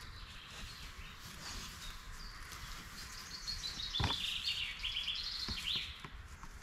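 A songbird singing, scattered notes building into a fast run of quickly repeated notes from about three to six seconds in, over a steady background hum of open country. A single sharp click from gear being handled about four seconds in.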